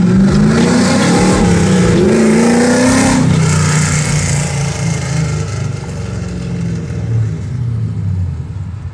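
2001 Chevrolet Camaro's engine accelerating, its note rising for about three seconds, then dropping to a lower, steadier pitch as it runs on.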